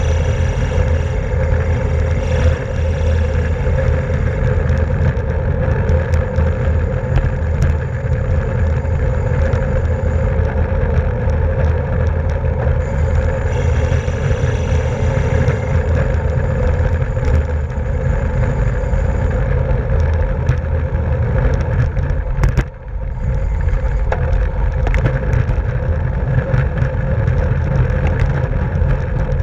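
Steady rush of wind and road noise from a road bicycle ridden at race speed, heard on the bike's own camera microphone; it drops out briefly about two-thirds of the way through.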